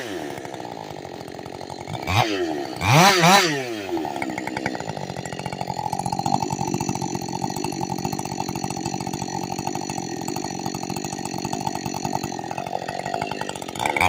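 Ported Husqvarna two-stroke chainsaw idling, blipped up to high revs twice about two and three seconds in, then settling into a steady idle.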